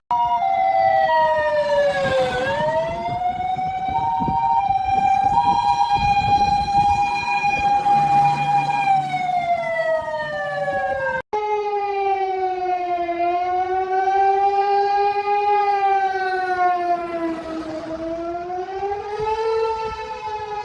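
Fire engine siren wailing, its pitch sliding slowly down and back up, with a second tone switching on and off during the first half, over a low rumble. The sound cuts out for an instant about eleven seconds in, then the wail carries on at a lower pitch.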